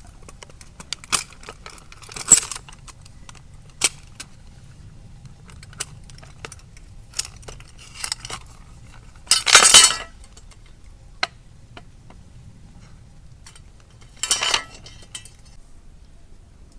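Metal camping gear clinking and clattering as it is handled, in short separate knocks and rattles. The loudest is a clatter of about half a second near the middle, with another a few seconds before the end.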